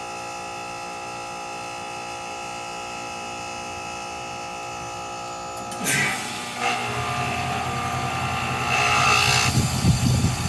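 2006 Carrier heat pump outdoor unit running: a steady hum made of several even tones. About six seconds in a rush of noise breaks in, and a louder, lower hum with rising hiss follows.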